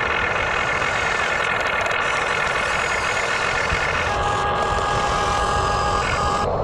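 Radio-controlled backhoe excavator running: a steady engine-like drone with a high motor whine. The whine changes pitch about four seconds in and settles back near the end.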